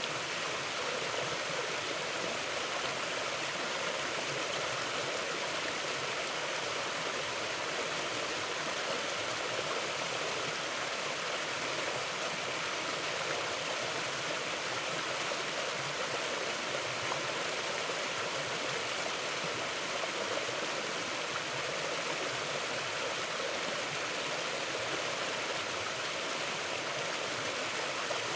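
Steady rush of a flowing mountain stream over rocks, with no breaks or changes.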